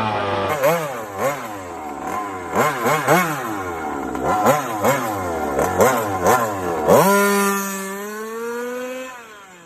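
Small two-stroke engine of a homemade mini car, revved in a string of quick blips with the pitch swooping up and down, then held at a slowly rising pitch for about two seconds before fading away near the end.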